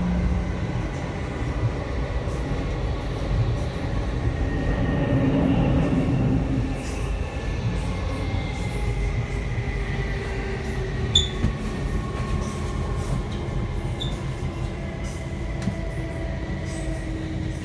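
Passenger train running at speed, heard from inside the carriage: a steady rumble of wheels on the track with faint whining tones that slide slowly down in pitch, and two short high ticks about two thirds of the way in.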